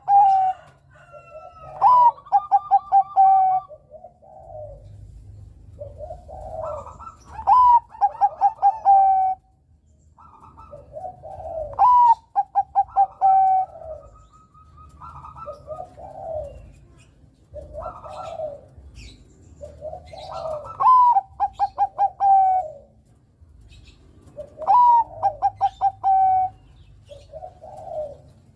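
Zebra dove (Bangkok perkutut) singing its cooing song. Every few seconds comes a phrase that opens with a rising note and runs into a quick string of short rolling coos. Softer, lower coos fill the gaps between phrases.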